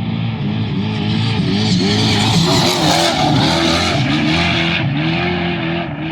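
Off-road race vehicle passing at speed, its engine pitch rising and falling over and over as the throttle works. It is loudest about two to four seconds in, with a hiss of tyres and spraying dirt.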